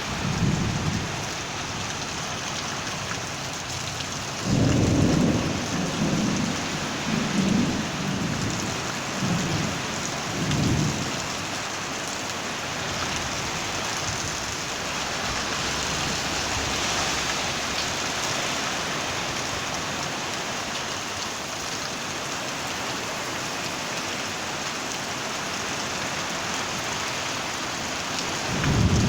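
Heavy rain falling steadily, with thunder rumbling in a series of rolls from about four to eleven seconds in and again at the very end.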